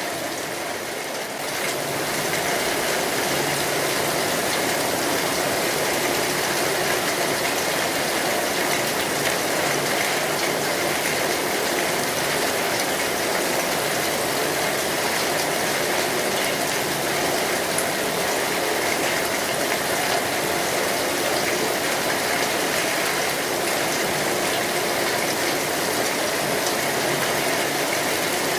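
Steady rain falling on an umbrella overhead, an even hiss of drops without a break.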